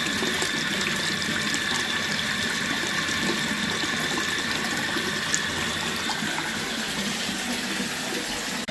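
Bathroom sink faucet running steadily with the water flowing down the drain: the drain is clear and unblocked.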